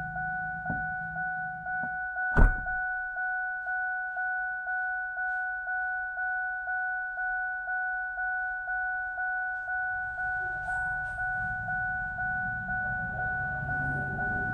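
Vehicle warning chime repeating about one and a half times a second on one steady note, the dash chime of a 2006 Ford Expedition. One loud thunk comes about two and a half seconds in.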